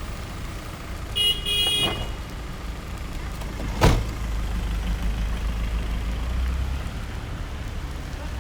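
City street traffic with a steady low rumble of engines; about a second in, a car horn gives two quick honks, the second a little longer. A single sharp knock about halfway through, then a vehicle's engine rumble swells for a few seconds.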